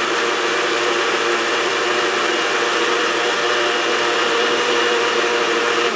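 Countertop blender motor running steadily at speed, blending a chocolate milk mixture for a homemade Frosty; it stops at the very end.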